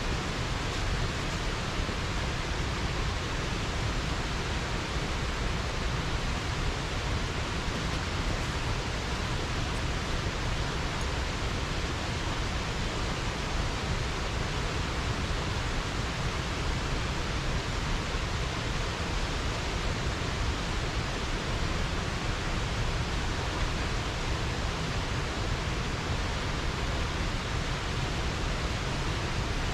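Water pouring over a small river weir: a steady, even rush with no breaks.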